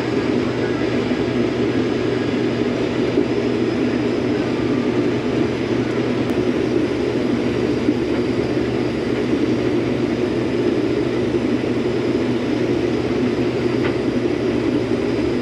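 Combine harvester running steadily while cutting wheat: a constant low engine hum under a dense, even mechanical noise.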